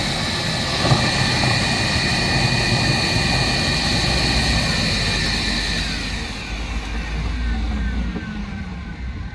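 A loud engine-driven machine running at high speed with a high whine, then winding down about six seconds in, its pitch falling.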